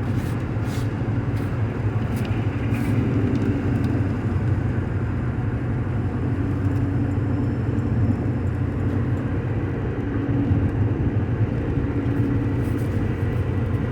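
Steady road noise inside a vehicle's cab at highway speed: a low engine and tyre drone with road hiss, and a few faint ticks in the first couple of seconds.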